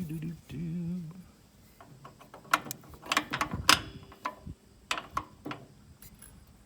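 Metal snowblower drive parts clinking and knocking as they are handled and fitted back together: a scatter of sharp clicks, the loudest about two and a half and three and a half seconds in.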